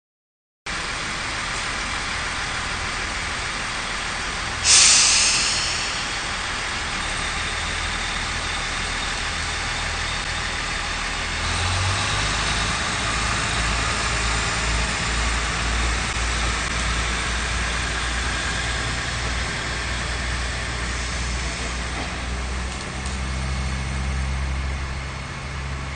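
Diesel railway engine running at a station, a steady low drone that steps up in pitch and loudness about twelve seconds in as it is throttled up. A short, loud hiss sounds about four and a half seconds in.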